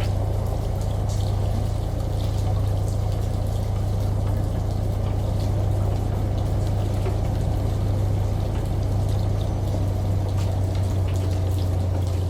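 Washing machine running with water pouring through it over a steady low hum, with faint scattered ticks on top.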